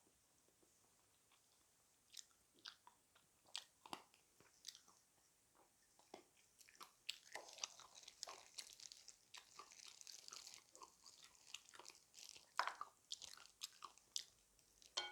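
A person biting and chewing crunchy food with wet, crackling crunches; a few scattered bites at first, then denser, steady chewing from about seven seconds in.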